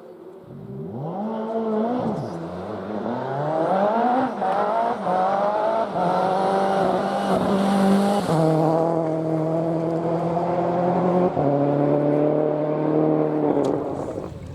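Rally car engine on a forest stage, revving up and down in quick swoops, then pulling steadily with two sudden gear changes as it passes. It fades away near the end.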